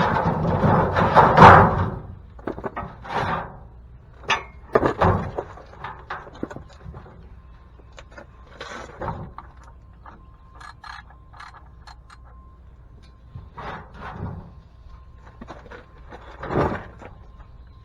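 Irregular clunks and knocks of tools and a drain pan being handled under a pickup during an oil change. They are loudest and busiest in the first two seconds, then become scattered lighter knocks.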